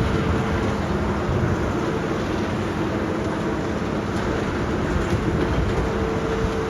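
Heavy diesel demolition machinery running steadily, a continuous engine noise with a faint hum.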